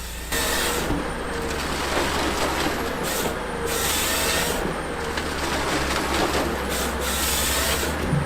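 Wood chipping machine chewing through wood: a coarse rasping grind with repeated surges of hiss, over a steady low engine drone.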